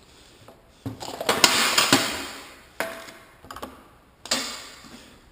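Hard parts knocking and scraping as they are handled and set in place on the drain stand. There are three bursts: a long one with several sharp knocks about a second in, then two shorter ones that fade.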